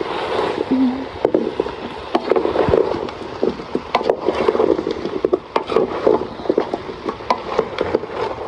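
Irregular knocks and scrapes, many small sharp strikes coming unevenly.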